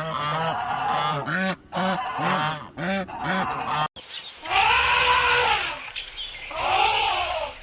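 Waterfowl honking in a quick series of short calls, about two a second. After an abrupt cut, two longer drawn-out animal calls follow over a low rumble.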